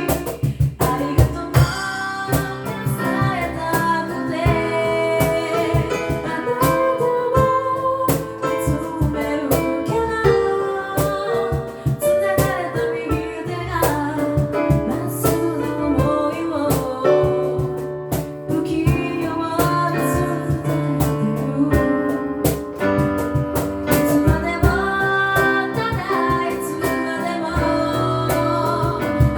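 An a cappella group singing in harmony, female lead voice over sustained backing voices and a low bass line, with percussive strokes keeping a steady beat.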